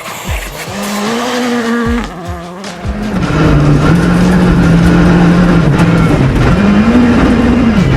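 Rally car engine on a gravel stage: revs dropping sharply several times over the first three seconds, then the engine gets louder and holds a steady high note, with a brief rise and fall in pitch near the end.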